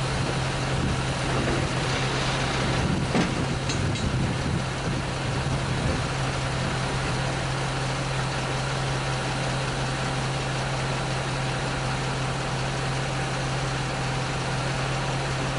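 An engine idling steadily, with a few short knocks about three to four seconds in.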